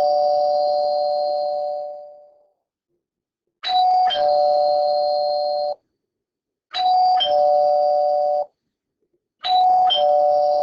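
Doorbell chiming a two-note ding-dong, a higher tone falling to a lower one, repeated about every three seconds.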